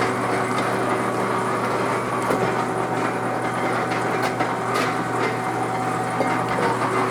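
Doall DC-330NC horizontal bandsaw running steadily, its band blade cutting through a wooden 2x4 over a constant motor hum, with a few sharp ticks.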